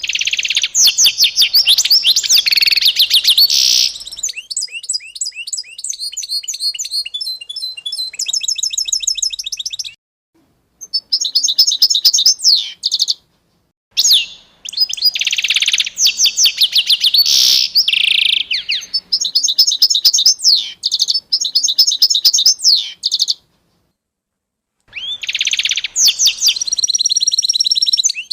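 Songbirds chirping and singing in fast, high-pitched trills and chirp series, in loud stretches that stop abruptly for a second or so three times.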